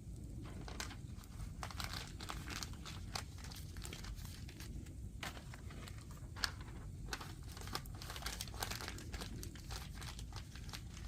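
Firewood burning and crackling: irregular sharp pops and snaps, several a second, over a low steady rumble.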